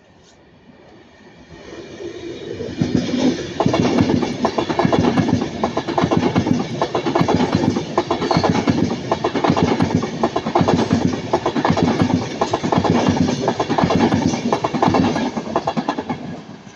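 Avanti West Coast Class 390 Pendolino electric train passing close by. Its sound builds over the first few seconds, then holds as a loud, fast, continuous clickety-clack of wheels over rail joints, easing slightly near the end.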